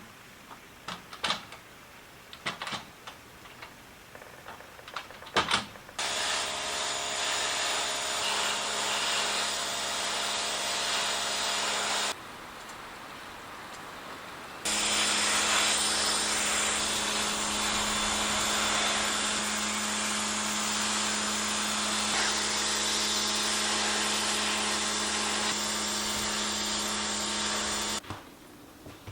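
Pressure washer running and spraying in two long stretches, with a pause of a couple of seconds between them; it stops suddenly near the end. A few clicks and knocks come before it starts.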